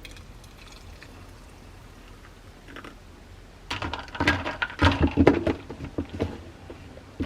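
Handling noise: a quick run of clicks, knocks and rustles starting a little over halfway through, over a faint steady hiss.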